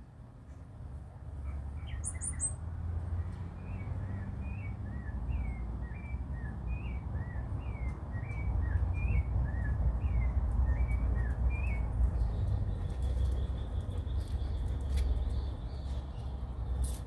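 Small birds chirping: a short chirp repeated about once or twice a second, then a steady high buzzing note near the end. A low rumble runs underneath throughout and is the loudest part.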